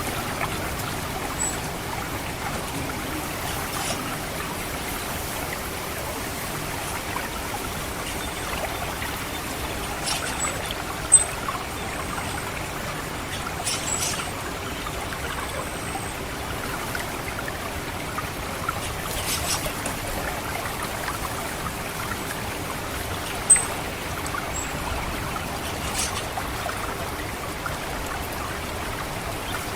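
Water trickling steadily through a rice paddy, with scattered short, very high, thin 'cit' calls of an orange-headed thrush. Two of the calls are sharper and louder, about a third of the way in and again about three quarters of the way.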